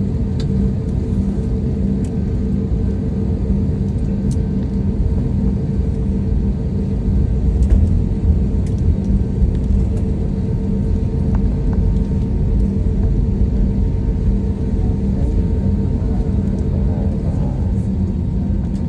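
Airliner cabin noise after landing: a steady low rumble with a constant hum from the engines or air system.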